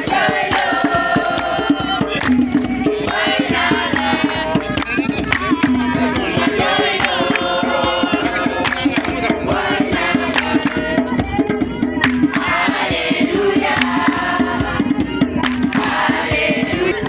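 A group of voices singing a song together over fast, steady hand-drum percussion.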